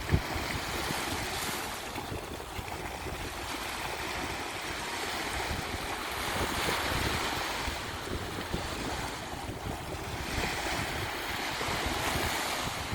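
Sea surf washing onto a beach: a continuous rush of waves that swells and falls back about every four to five seconds. A short thump right at the start.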